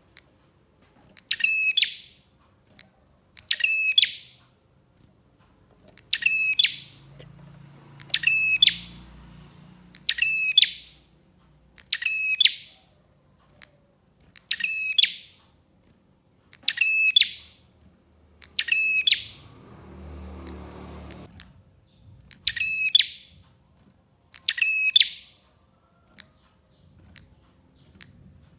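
Prinia (prenjak) calling, a short, rapid, high-pitched trilled phrase repeated about every two seconds. A faint low rumble rises under it about two-thirds of the way through.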